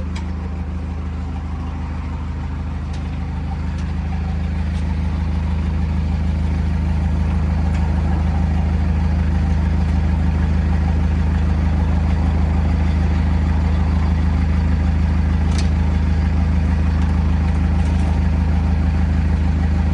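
Heavy diesel engine idling steadily with a low, even hum, growing a little louder about four to eight seconds in.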